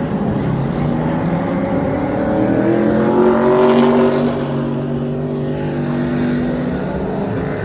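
A car engine under throttle passing by. It rises in pitch and is loudest about three to four seconds in, then drops slightly in pitch as it moves away.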